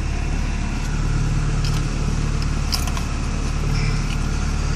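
Porsche 944's inline four-cylinder engine idling steadily, heard from inside the cabin, with a few light clicks and rattles about two to three seconds in.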